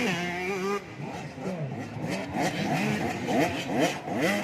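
Several 85cc two-stroke motocross bikes racing together. Their engines rev in repeated rising whines that drop at each gear change, and the whines overlap one another.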